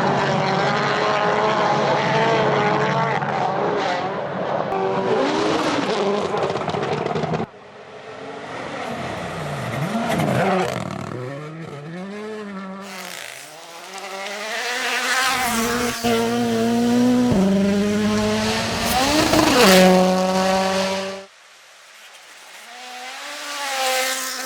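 Rally car engines at high revs over several cuts: first one engine held steady at high revs, then engines revving up and down through gear changes as cars pass, with the sound changing suddenly at each cut, about seven seconds in and again near the end.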